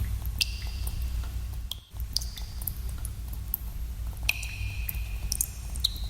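Water drops falling into cave pools: many small irregular plinks, several ringing on as short high tones, over a steady low rumble. The sound cuts out for an instant a little under two seconds in.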